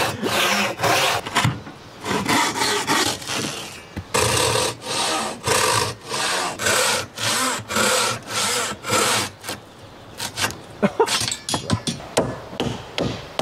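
Hand saw with a one-metre blade cutting through stacked logs, steady back-and-forth strokes about two a second. A few sharp knocks near the end.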